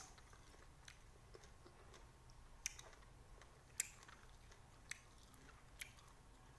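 A person chewing lime, heard as a handful of small sharp mouth clicks about once a second, otherwise near silence.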